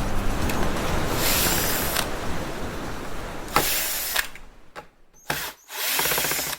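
Small power tool running in several short bursts, with a sharp click about three and a half seconds in.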